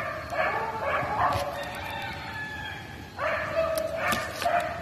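Cats meowing repeatedly, a string of short, high, bending calls, as though begging for food.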